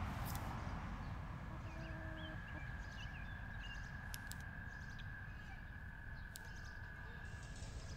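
Faint birds chirping in short calls over a steady low outdoor rumble, with a few light clicks.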